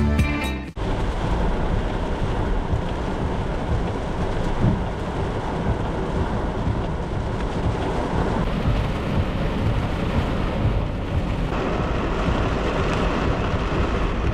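Heavy rainstorm: steady rain noise with a low, continuous rumble. Background music cuts off about a second in.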